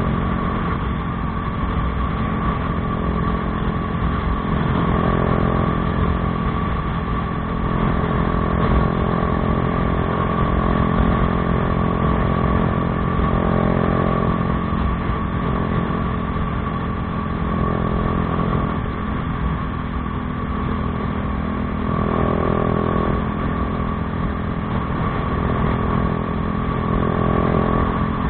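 Bajaj Dominar 400's single-cylinder engine running through an aftermarket Akrapovič exhaust, a steady exhaust note with a few mild swells in level.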